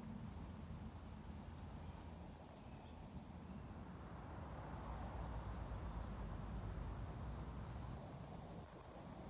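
Small birds singing faintly in two bouts of quick high chirps, about a second and a half in and again from about five and a half seconds, over a low steady rumble of outdoor background noise.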